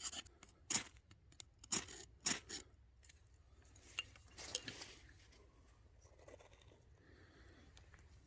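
Several short, crisp rustles and scrapes of handling, grouped in the first five seconds, then only faint background.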